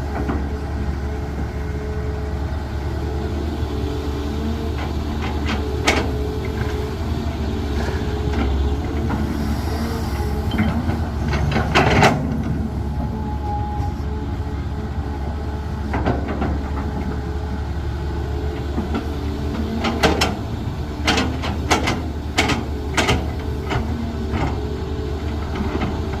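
Heavy construction machine's diesel engine running steadily, with occasional sharp knocks and clanks and a quick cluster of them near the end.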